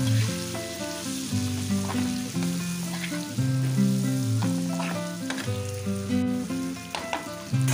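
Spiced potatoes and tomato sizzling in hot oil in a frying pan, stirred with a metal spatula that scrapes and knocks against the pan a few times, as the masala is fried down. A slow background melody of held, stepping notes plays over it.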